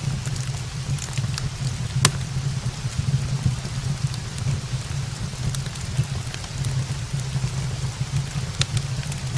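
Steady rain with a low rumble, mixed with scattered sharp crackles from a wood fire burning in a brick fireplace; one louder pop comes about two seconds in.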